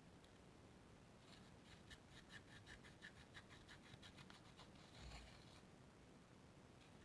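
Slime being squished and worked by hand, giving a faint run of quick little clicks and pops, about five a second, then a soft thud about five seconds in.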